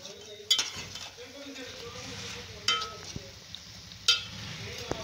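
Bread slices sizzling as they fry in ghee, with three sharp metallic clinks of a spoon against the pan as the dark-brown slices are lifted out.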